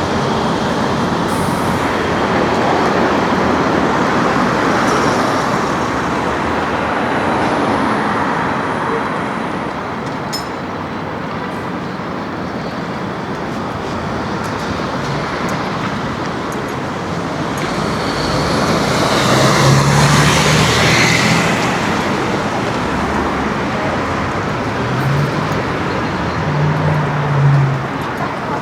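Busy city-street traffic: a steady wash of road vehicles. A louder vehicle passes about two-thirds of the way through, its engine hum swelling and then fading.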